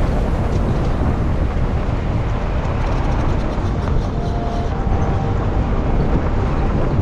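Steady rumble of a vehicle on the move, engine and road noise running evenly, with faint short thin tones around the middle.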